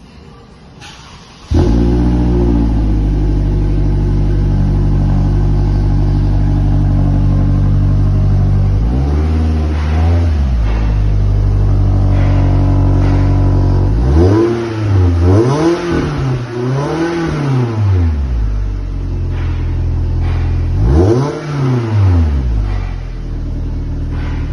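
Toyota Camry's 2.5-litre inline-four, breathing through a Range Rover 5.0 exhaust system, cold-starting about a second and a half in and settling into a steady high idle. It is then revved with throttle blips, the pitch rising and falling: once, then three in quick succession, then once more near the end.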